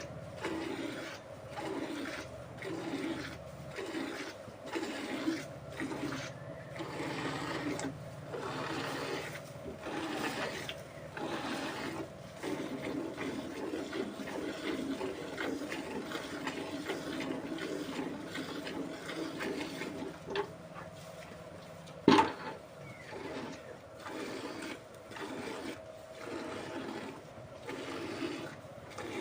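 Cow being milked by hand, streams of milk squirting into a pail in a steady rhythm of about three squirts every two seconds. A single sharp knock about two-thirds of the way through.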